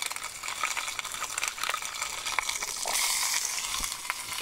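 Olive oil and garlic sizzling in a steel pot over a wood fire, with scattered crackles. The sizzle gets louder about three seconds in as bacon goes into the hot oil.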